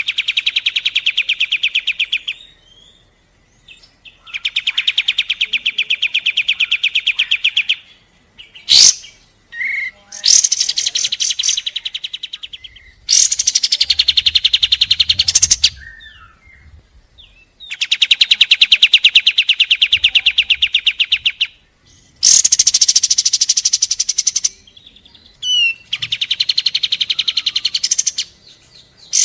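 Kapas tembak bulbul singing its rapid-fire 'tembakan' song: seven long, fast trills of about two to four seconds each, with short pauses. A few sharp rising whistle notes fall between the trills.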